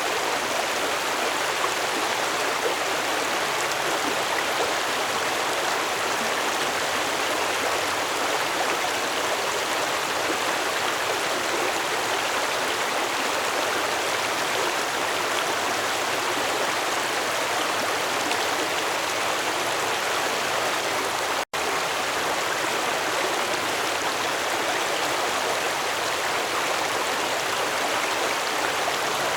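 Stream water flowing in a steady, even rush, with a split-second dropout about two-thirds of the way through.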